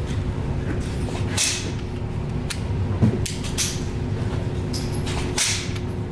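Scattered sharp clicks and knocks of a handgun and its magazine being handled, over a steady hum with a faint constant tone.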